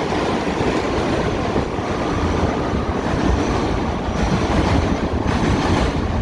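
Wind rushing over the microphone with road noise from a moving electric motorcycle at speed, steady throughout, with a faint steady whine above it.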